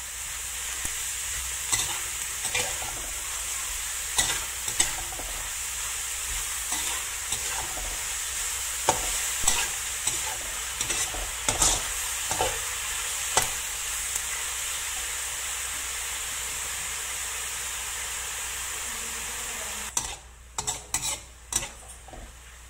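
Sliced mushrooms, onion and garlic sizzling in hot oil in a wok, stirred with a metal spatula that clicks and scrapes against the pan now and then. About twenty seconds in, the sizzle drops off sharply and a quick run of sharper spatula knocks follows.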